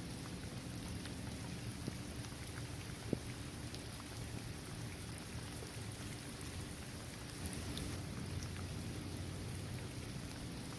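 Steady rain falling on a hard court, trees and grass, with scattered single drops ticking close by; one sharper drop tick about three seconds in.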